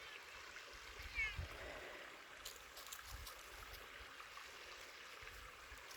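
Creek running high after heavy rain, a steady rush of flowing water, with a brief high chirp about a second in.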